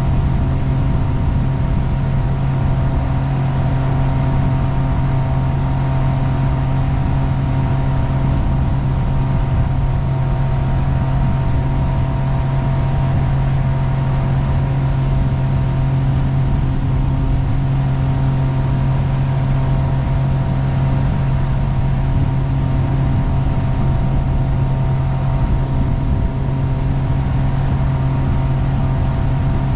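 Jet boat engine running at a steady speed while the boat is underway, a constant low drone that holds the same pitch throughout.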